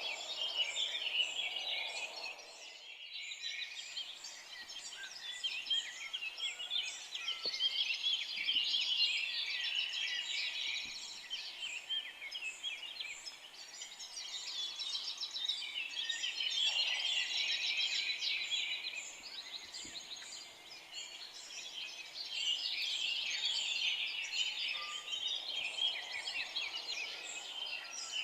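A dense chorus of many songbirds chirping and trilling together, swelling and easing off in waves every several seconds, with a few softer, lower calls underneath.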